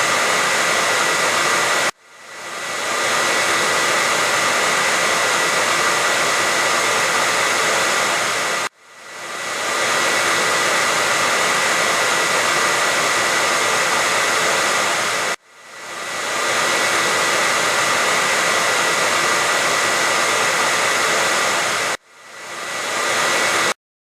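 Handheld hair dryer blowing: a steady rush of air with a high whine in it. It cuts out sharply three times, each time building back up over about a second, and stops abruptly near the end.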